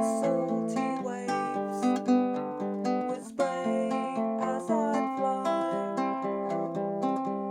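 Baritone ukulele played solo, plucked chords and melody notes with no singing, with a brief break in the playing about three seconds in.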